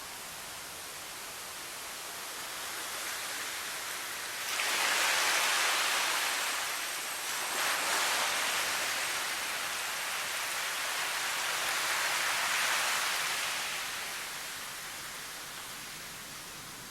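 Steady rushing hiss of a nature-sound recording, swelling suddenly louder about four seconds in and easing back down over the next ten seconds.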